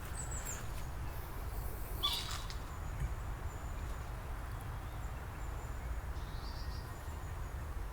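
Steady low background rumble, with faint high chirps about two seconds in and again near six seconds.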